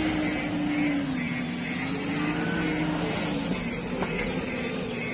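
Heavy diesel engine working hard, its pitch swelling and sagging slowly as the throttle and load vary, as it tries to pull free. A faint high pip repeats about twice a second.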